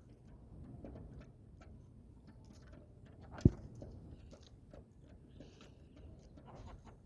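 Chickens pecking at feed: a scattered run of light ticks and taps, with one sharp knock about three and a half seconds in.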